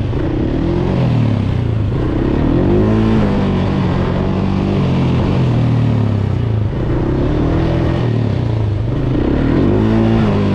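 A motor vehicle engine idling, with the throttle revved and released about four times, each rev rising and falling in pitch.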